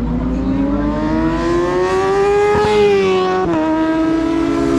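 1000 cc superbike engine at racing speed, its pitch climbing steadily as it accelerates, then dropping sharply about three and a half seconds in as it shifts up a gear.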